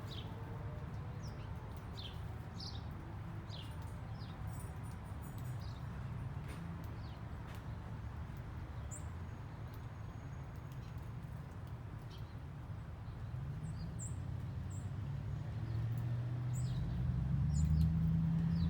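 Small birds giving scattered short, high chirps over a steady low background rumble; the rumble grows louder over the last few seconds.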